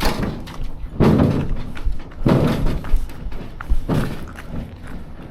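A canoe bumping down steps, with four heavy thuds and scrapes roughly a second apart as it is lowered one step at a time.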